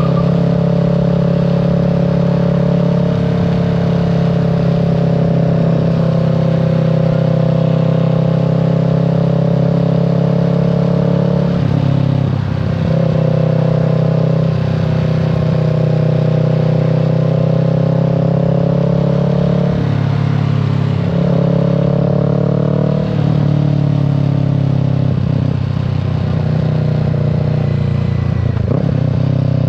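Kawasaki Z650's parallel-twin engine and exhaust running at steady riding revs, the engine note breaking off briefly twice, about twelve and twenty seconds in, then picking up again, with wind rush over the microphone.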